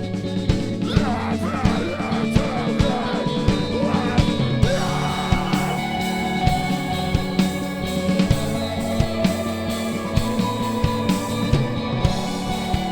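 Live rock band playing, with drums and electric guitars. Gliding guitar notes sound in the first few seconds.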